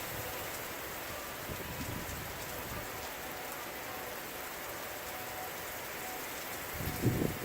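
Steady rain falling, with a brief low thump near the end.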